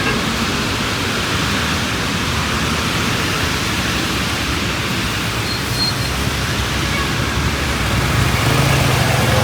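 Steady hiss of rain falling on a city street, mixed with road traffic; a vehicle's low engine rumble grows louder near the end.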